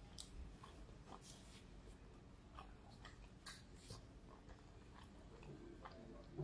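Faint chewing with a closed mouth, a few soft mouth clicks over near-quiet room tone.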